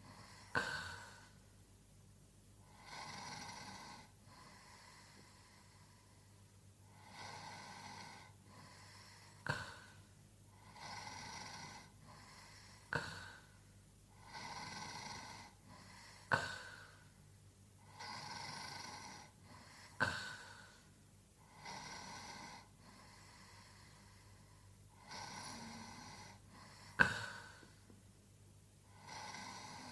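A man snoring steadily in his sleep, one breath about every three and a half to four seconds. Each breath is a rasping snore, often followed by a sharp, short snort.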